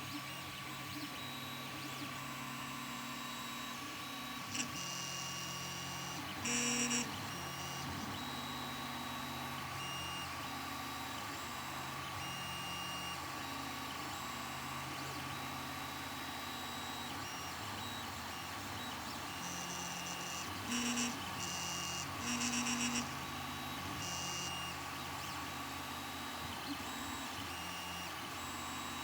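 Ender 3 Pro 3D printer running: a steady high hum under shifting motor tones, with loud short buzzing squeals about six seconds in and twice more near the two-thirds mark. These are the weird noise from the nozzle area.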